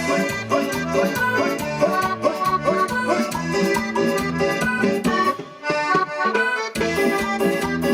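Live Latin dance music from a keyboard-led band: an accordion-voiced melody over a steady bass beat. The bass drops out briefly about six seconds in, then the full band comes back in.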